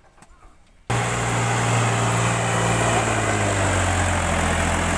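Tractor engine running loud and steady, cutting in suddenly about a second in, its pitch sagging slightly.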